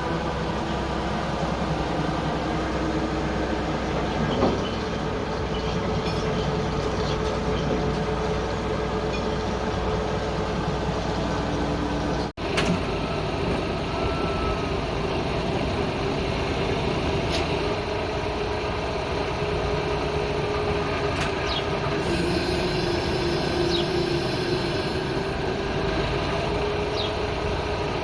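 Machinery running steadily while the combine's engine is lifted out by crane: a continuous drone with held whining tones whose pitch shifts a few times, with a brief dropout about twelve seconds in.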